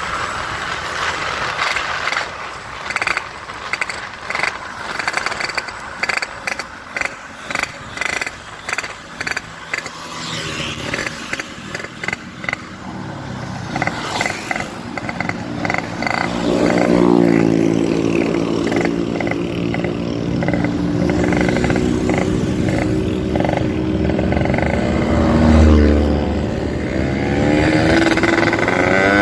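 Motorcycle engine breathing through a gutted (bobokan) muffler: quick throttle blips for the first ten seconds or so, then revved and held, its pitch rising and falling.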